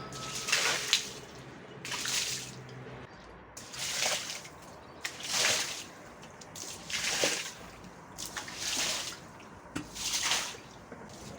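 Water splashing in short repeated bursts, about one every second and a half.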